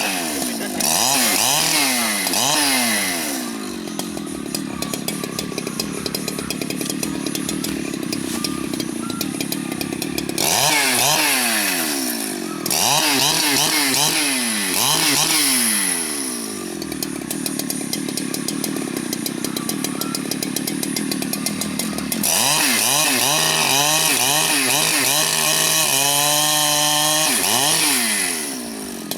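Large two-stroke Husqvarna chainsaw, revved up and down again and again in quick throttle blips, with stretches of steadier running between as it cuts into the wood.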